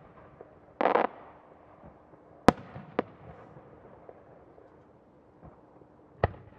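Aerial firework shells bursting: a brief rush of noise about a second in, then sharp bangs about two and a half and three seconds in, and another near the end.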